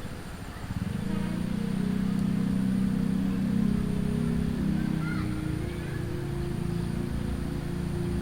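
A diesel train passes, its engine making a steady low drone that swells from about a second in. One of its tones drops in pitch about halfway through.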